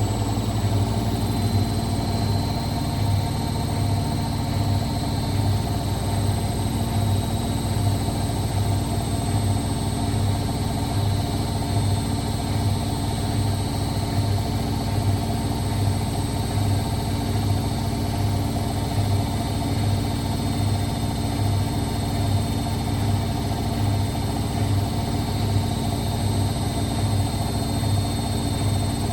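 Hotpoint WML540 washing machine spinning steadily at speed: an even motor whine over a low hum that pulses regularly.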